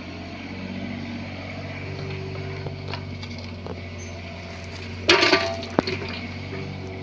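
Bobcat 322 mini excavator running steadily at working revs, with a loud half-second clatter about five seconds in and a sharp knock just after it.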